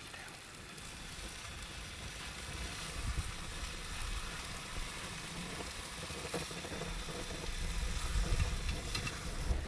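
Food sizzling in a pan over a wood fire, a steady hiss. Wind rumbles on the microphone from about three seconds in, growing stronger near the end.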